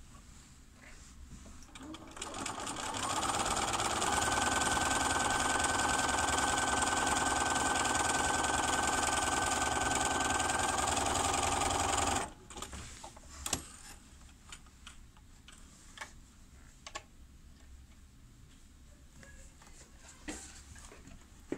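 Bernina 380 electronic sewing machine stitching a blind hem. It speeds up over a couple of seconds, runs at a steady fast speed for about eight seconds, then stops abruptly, followed by a few faint clicks.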